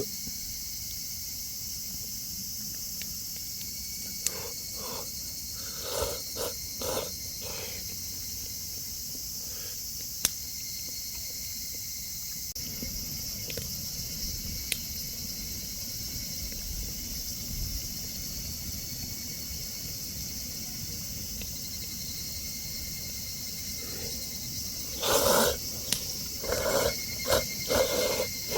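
Insects chirring steadily in a high, unbroken drone, typical of late-summer crickets. A few short, louder sounds come in clusters about six seconds in and again near the end.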